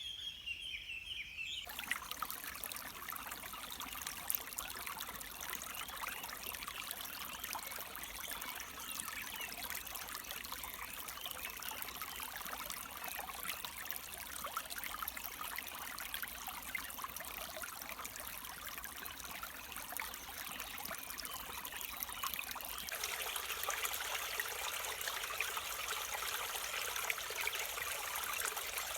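Stream water flowing and trickling, starting abruptly about two seconds in after a brief high, steady call. Near the end the water sound turns a little brighter and louder.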